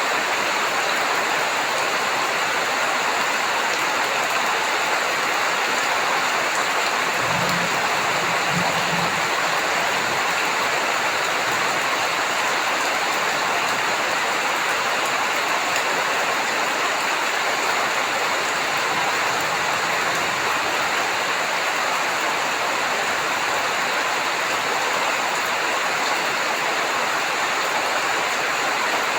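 Heavy rain falling steadily, an even hiss of water on surfaces, with a brief low rumble about seven seconds in.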